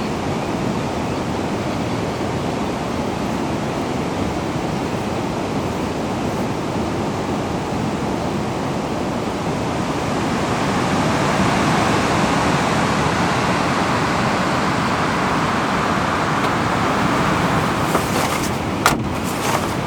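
Steady rushing of water, rain or the river close by, swelling a little about halfway through. A few sharp clicks come near the end.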